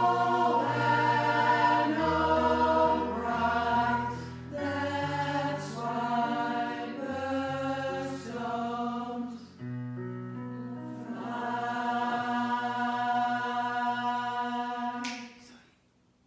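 Pop choir singing in several parts, with sustained notes changing every second or two. It ends on a long held chord that cuts off about fifteen seconds in.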